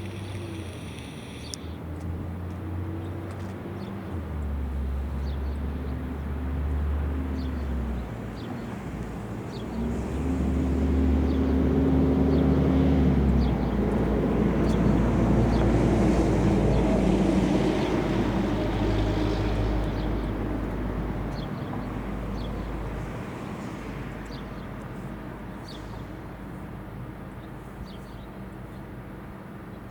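A motor vehicle passing: a low engine rumble that grows louder, is loudest about halfway through, then slowly fades away.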